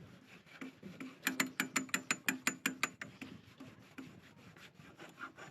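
Toothbrush scrubbing a stainless steel rigging fitting to clean rust out of its thread, with a quick run of about a dozen short back-and-forth strokes about a second in, then slower, fainter rubbing.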